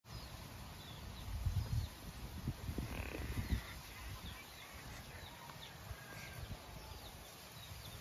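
Faint, short bird chirps scattered throughout, over low, uneven rumbling thumps that are loudest in the first half.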